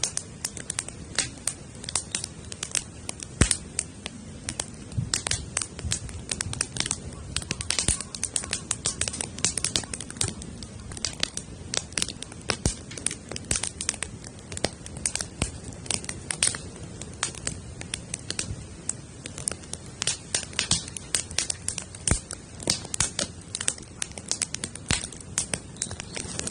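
Wood campfire built teepee-style, crackling steadily with many sharp, irregular pops.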